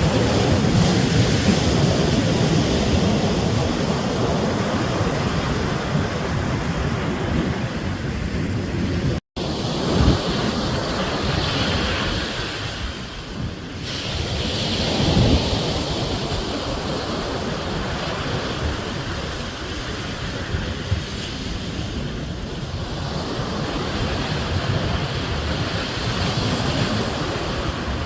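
Ocean surf: waves breaking and washing in a continuous rush that swells and eases, with wind buffeting the microphone. The sound cuts out for an instant about nine seconds in, then the surf comes back with a fresh surge.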